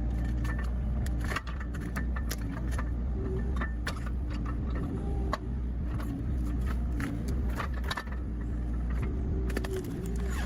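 Excavator's diesel engine running steadily, with frequent short, sharp clinks and cracks as the steel hook works through soil and roots.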